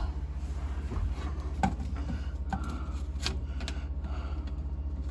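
A few light clicks and knocks of sink drain pipe pieces being handled and fitted together, over a steady low hum.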